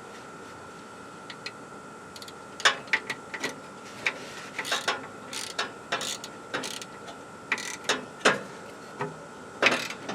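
Hand ratchet clicking in short, irregular runs as a bolt on the truck's starter is tightened. The clicking starts a couple of seconds in.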